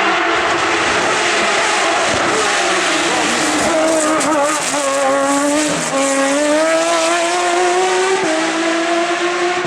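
Race car engine running hard at high revs on a hill climb, its pitch dipping and climbing through the middle as it changes gear and stepping up again near the end.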